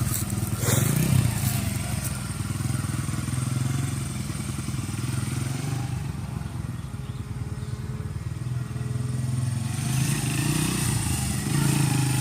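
Small dirt bike engine running as the bike is ridden, with a short rise in revs about a second in; it gets quieter in the middle and louder again near the end.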